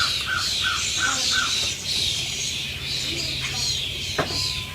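Pet birds chirping and squawking, with many short high calls overlapping throughout. A run of evenly spaced lower chirps, about three a second, comes in the first second and a half, and a sharp click sounds near the end.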